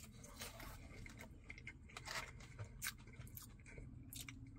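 Faint close-up chewing of french fries with ketchup: soft, irregular wet mouth clicks, a little louder twice in the middle.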